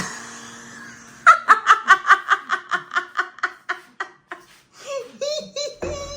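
A person laughing hard in a rapid run of about twenty "ha" pulses, followed near the end by a shorter, higher-pitched giggle.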